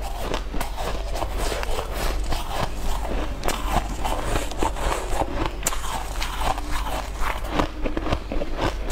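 Close-miked chewing and mouth sounds from a person eating: a dense run of irregular small clicks and wet smacks.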